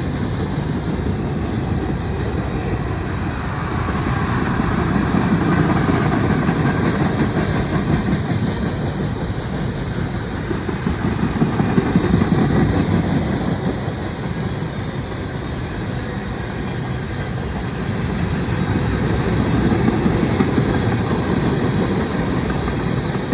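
Cars of a mixed freight train rolling past, a steady low rumble that swells and eases every several seconds, with bursts of wheels clacking over rail joints.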